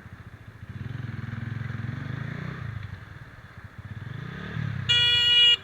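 Motorcycle engine pulling away, its note rising and falling, then a horn blares once, loud and steady, for under a second near the end.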